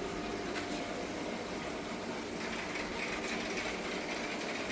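Steady electric hum and hiss of the shop's aquarium air pumps and filters running.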